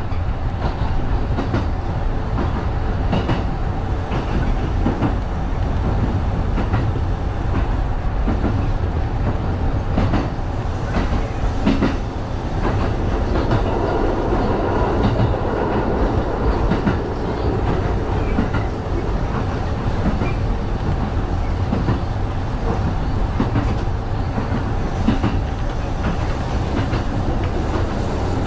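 Kintetsu 1010-series electric train running steadily along the line, heard from inside the car: a continuous low rumble with wheels clicking over rail joints.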